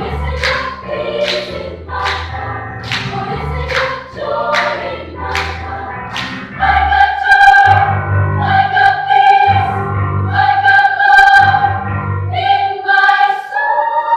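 Children's choir singing: short rhythmic sung phrases with crisp consonants, then from about halfway, louder long-held chords.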